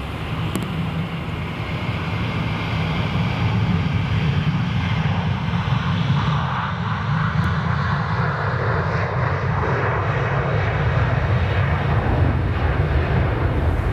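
Jet airliner's engines getting louder over the first few seconds as it passes on landing, then holding a steady loud rush, heard from inside a car.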